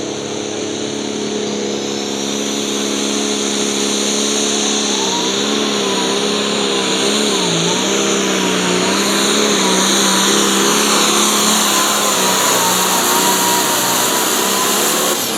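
A pulling vehicle's engine running hard at full load down the track, its pitch mostly steady but wavering through the middle of the run, growing slowly louder and letting off at the very end.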